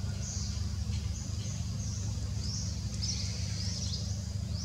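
Small birds chirping: short, high calls and quick pitch sweeps, several a second, over a steady low rumble.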